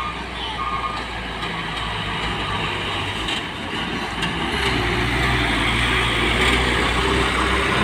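Heavy truck's diesel engine running on a steep climb, a steady low drone that grows louder from about halfway through. A few short, evenly spaced beeps sound at the start and stop about a second in.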